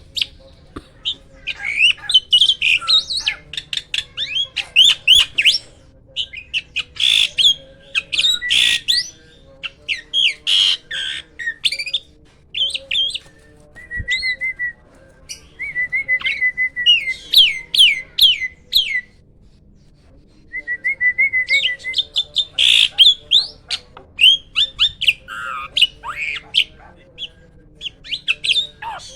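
Hybrid jalak (starling) singing loudly: phrase after phrase of rapid whistles, chatter and harsh squawks, with brief pauses between the phrases.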